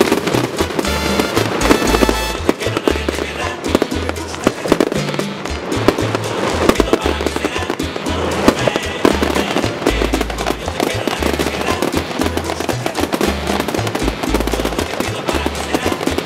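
Aerial fireworks banging and crackling in a rapid, continuous barrage, over music with a pulsing bass line.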